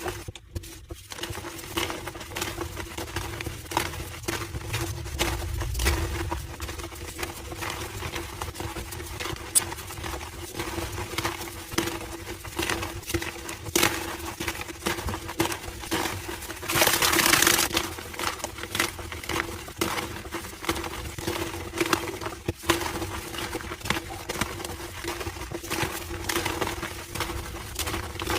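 Slabs of homemade gym chalk being crushed, with dense, continuous squeaky crunching and crackling. A louder burst of crumbling comes about 17 seconds in.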